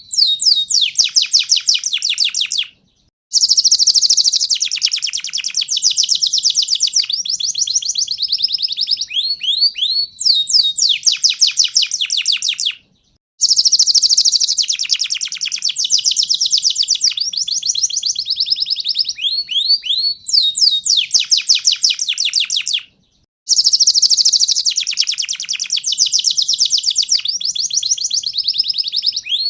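Panda (pied) domestic canary singing vigorously: long, high-pitched runs of rapid trills, broken by brief silences about every ten seconds.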